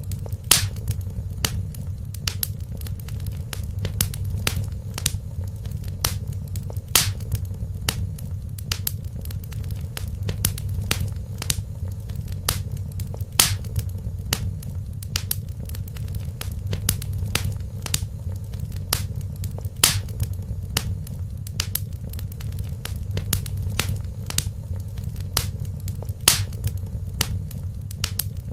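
Wood fire crackling, with irregular sharp pops and snaps, a few much louder than the rest, over a steady low rumble of the burning fire.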